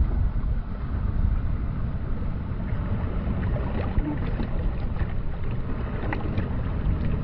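Wind buffeting the microphone as a steady low rumble, with a wash of surf noise and a few small clicks.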